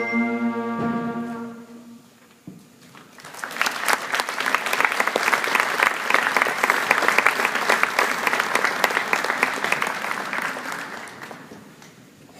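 A school concert band's final held chord dies away in the first couple of seconds. After a brief hush, the audience applauds for about eight seconds, and the applause fades out near the end.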